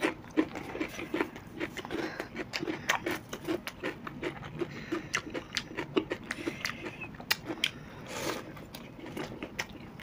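Close-up chewing and crunching of deep-fried pakoras: a steady rhythm of chews with irregular sharp, crisp crackles of the fried batter.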